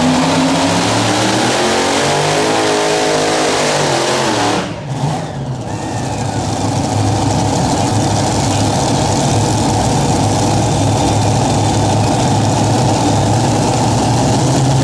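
Super modified pulling tractor's engine running at full throttle under load on a pull, its pitch wavering, with a brief drop about five seconds in before settling into a steady, loud drone.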